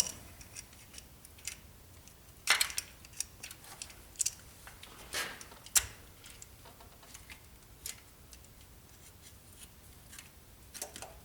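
Light metal clicks and clinks of a timing chain and cam gear being handled by hand on a PowerTech 4.7 engine, with a few louder rattles about two and a half and five seconds in.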